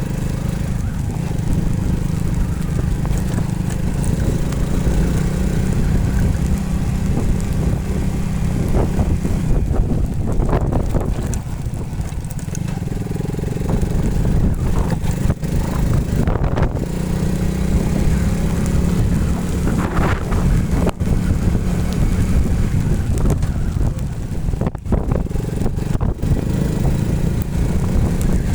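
Motorcycle engine running continuously, its pitch rising and falling a few times as the throttle changes.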